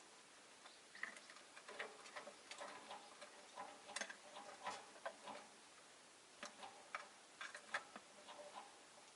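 Caged rosy-faced lovebirds making soft short chirps and clicking sounds, irregular and quiet, with a brief lull a little past the middle.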